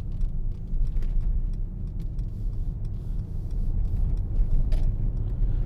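Mercedes-AMG GLC63 S's 4.0-litre twin-turbo V8 idling, a steady low rumble heard from inside the cabin, with a few light clicks.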